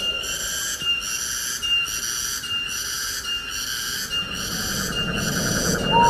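Tropical forest ambience: a high-pitched insect chorus pulsing steadily, a little more than once a second. A short rising whistled bird note comes near the end.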